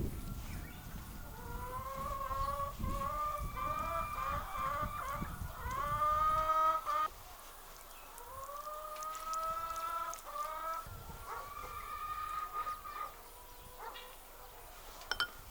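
Chickens calling: two runs of short pitched notes, each leading into a longer drawn-out note, with low noise under the first run that stops abruptly about seven seconds in.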